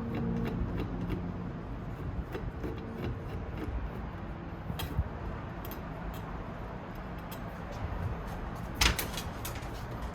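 Scattered light clicks and taps of tools and metal parts being handled during a computer disassembly, with a short cluster of louder knocks near the end.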